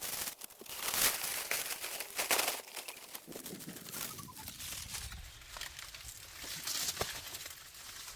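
Dry palm leaves rustling and crackling as they are handled and torn, in irregular bursts with many small sharp clicks, loudest about a second in and again just past two seconds.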